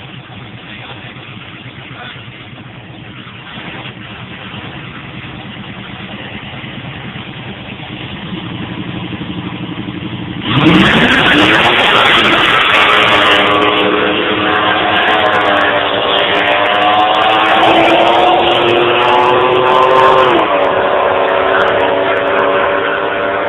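Engines of a Pontiac Trans-Am and a Ford Lightning pickup in a street race. They rumble steadily, growing slowly louder, then about ten seconds in they launch at full throttle with a sudden loud jump, engine pitch climbing steadily. About twenty seconds in the pitch drops sharply, then they run on loudly.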